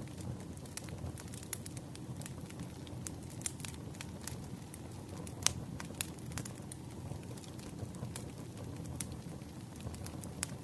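Campfire crackling: a steady low rumble with irregular sharp pops and snaps of burning wood, one louder pop about halfway through.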